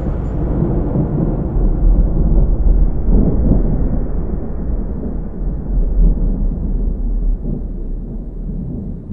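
A deep, steady rumble that swells a few times and slowly fades away, following a car crash.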